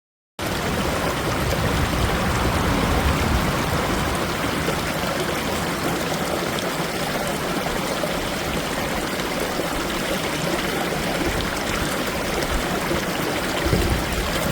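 A steady rushing noise like running water in a stream, starting abruptly just after silence, with an uneven low rumble underneath.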